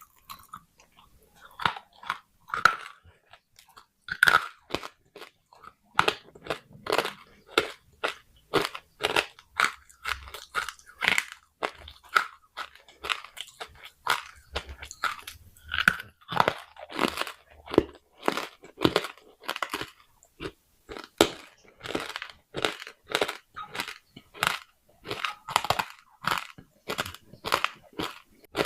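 A person biting and chewing pieces of baked clay pot, a steady run of sharp crunches a little under two a second.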